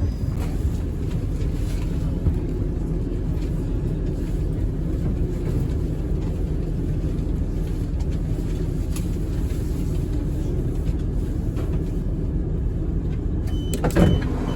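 Steady low rumble of a moving vehicle, with a short sharp knock near the end.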